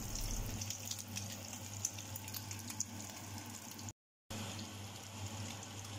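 Egg-coated taro patties sizzling in hot oil in a frying pan: a steady hiss with small crackles. The sound drops out completely for a moment just past halfway.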